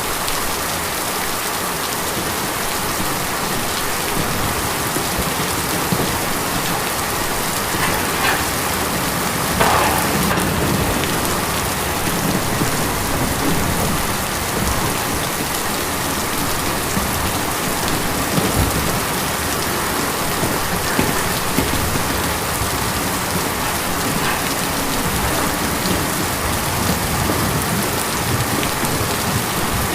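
Steady rain falling on a tin roof, a dense patter with occasional louder drops.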